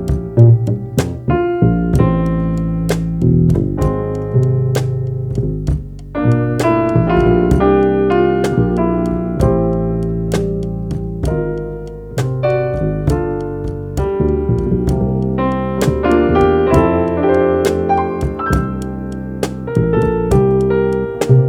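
Jazz trio playing a tune: keyboard carrying chords and melody over bass notes, with sharp drum taps about twice a second.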